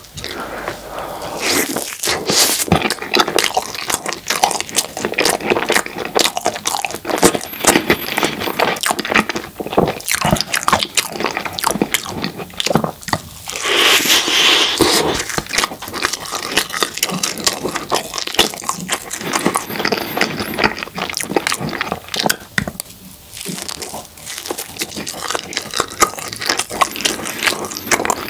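Close-up mouth sounds of eating soft chocolate crepe cake layered with cream: biting and chewing forkful after forkful, with irregular wet clicks throughout. There is a louder, longer stretch of mouth noise about halfway through as a new bite goes in.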